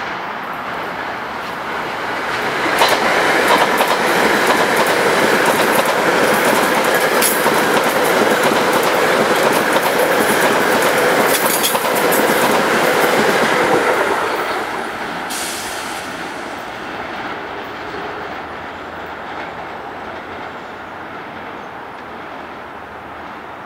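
Ten-car Metro-North M-3A electric multiple-unit train passing close at speed, its wheels clattering over rail joints and switches with sharp clicks. The noise builds over the first few seconds, is loudest from about 3 to 14 seconds in, then fades as the train recedes.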